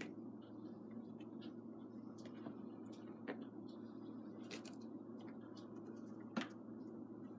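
Kittens playing and scuffling: scattered light clicks and scratches over a steady low hum, with two sharper knocks about three and six seconds in.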